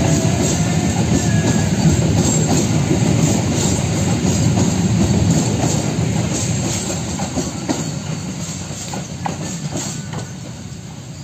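Passenger train coaches rolling past at close range, a heavy rumble with wheels clacking over the rail joints, fading away as the last coach passes near the end.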